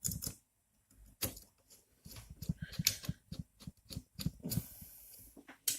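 Small hardware being handled: irregular clicks and light knocks of screws and plastic and metal printer parts being fitted together, with a quick run of clicks from about two to five seconds in.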